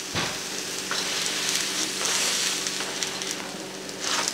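Stuffed masa gorditas frying in a little oil on a flat metal griddle (comal), a steady crackling sizzle, with one light knock near the start.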